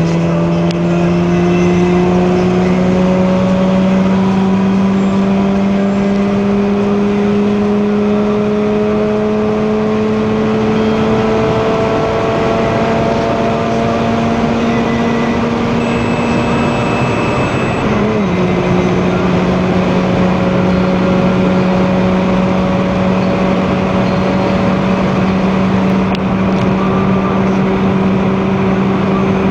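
Mazda RX-8's twin-rotor rotary engine heard from inside the cabin through a new aftermarket dual cat-back exhaust while driving. The engine note climbs slowly and steadily under acceleration, breaks briefly about two-thirds of the way through, then holds a steady drone.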